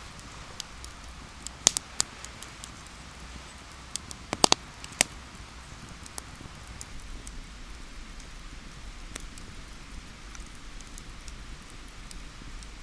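Campfire crackling: sharp, irregular snaps and pops over a soft steady hiss, loudest in two clusters, about two seconds in and again around four and a half seconds.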